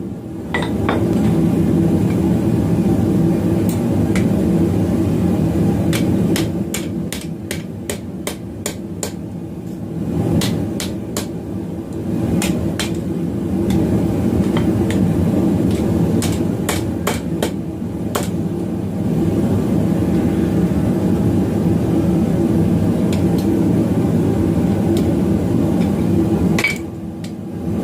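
Hammer striking a steel bar in runs of rapid blows, over a steady low rumble.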